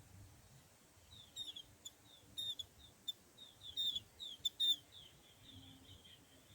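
White-eyes chirping: a run of high, thin, quick chirps starts about a second in and is loudest in the middle, then fades into fainter twittering near the end.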